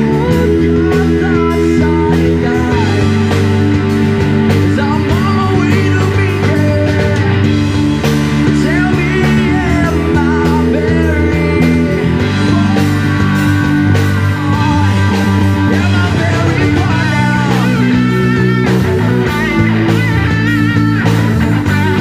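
Live rock band playing loud and without a break, electric guitar over bass and drums.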